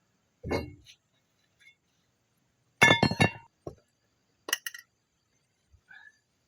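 Metal tools clinking and clanking while being handled: a dull thump about half a second in, then a loud cluster of sharp, ringing clinks about three seconds in, and a shorter burst of clinks a second and a half later.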